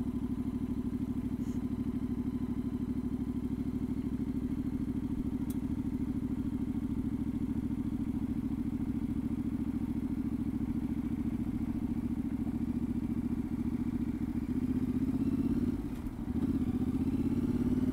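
Yamaha Ténéré 700's parallel-twin engine running steadily at a cruise. Near the end the engine note dips briefly, then climbs.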